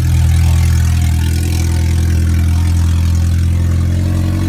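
Freshly swapped Honda H23 2.3-litre four-cylinder engine running steadily and loud on its first start-up, with a vacuum leak.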